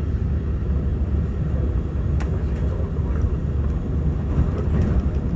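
Cabin running noise of a Taiwan Railway EMU900 electric multiple unit under way: a steady low rumble of wheels on rail, with a sharp click about two seconds in.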